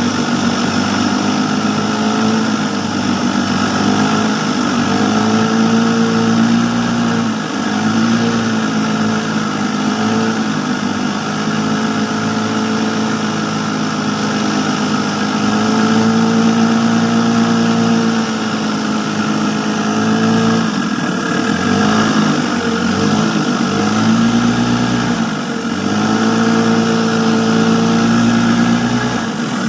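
Small engine running steadily, its pitch dipping and coming back up several times as the throttle eases off and opens again, most often in the second half.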